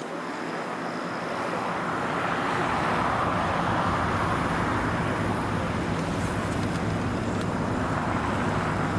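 Jet airliner engines roaring, the sound building over the first few seconds and then holding steady.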